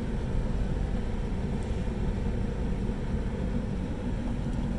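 Pickup truck engine running steadily at idle, a constant low rumble.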